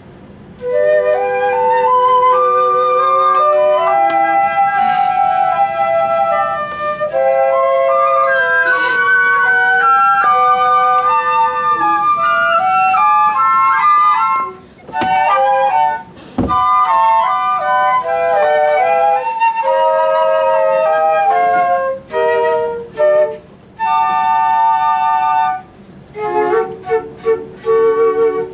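Flute playing a melody, note by note, starting about half a second in, with a pause in the middle and several short breaks between phrases near the end.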